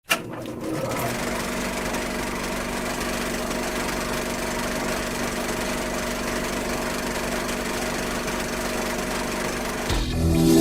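A steady mechanical drone with a few held low tones, after a sharp click at the start. Music begins near the end.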